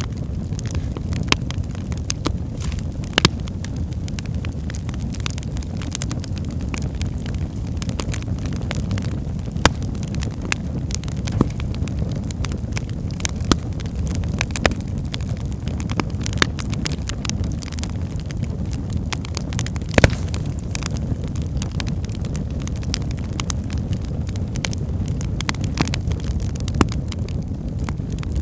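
Wood fire burning in a fireplace: a steady low rumble of flames with frequent sharp crackles and pops from the logs, a few of them louder.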